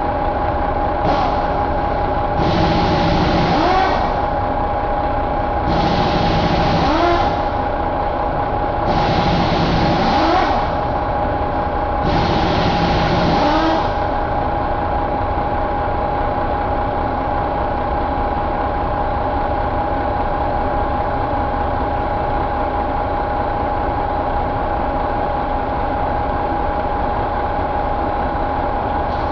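Detroit Diesel Series 60 12.7 L inline-six diesel engine revved four times in short bursts about three seconds apart, then settling to a steady idle. A steady whine runs under it throughout.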